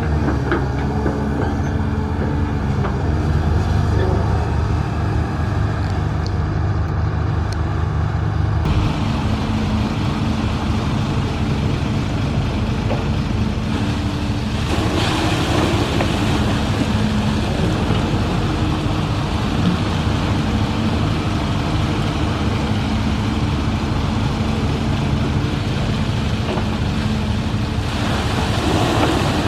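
Heavy construction machinery running: steady diesel engine noise, its note and mix changing abruptly twice.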